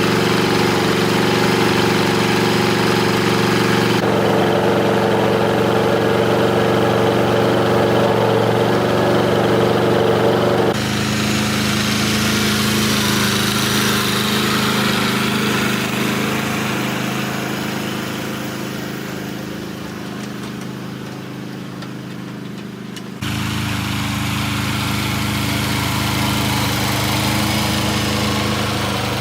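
An engine or motor running steadily with a constant hum. The sound changes abruptly in tone about 4 s, 11 s and 23 s in, and it fades somewhat in the middle stretch before jumping back up.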